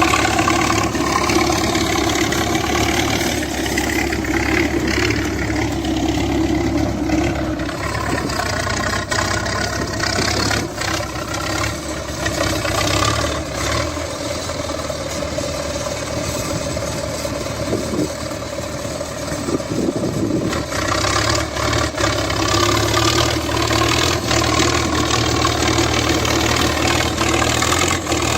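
T-74 crawler tractor's diesel engine running steadily, its note thinner and quieter through the middle and fuller again about three-quarters of the way through.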